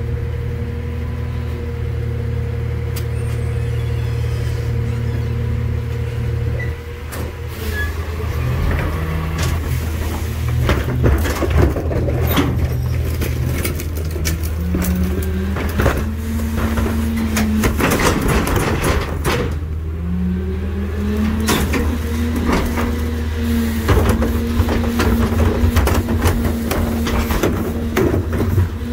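NewWay rear-loader garbage truck running, its engine revving up several times as the hydraulic packer cycles. Through the second half there is heavy crunching and banging as trash is compacted.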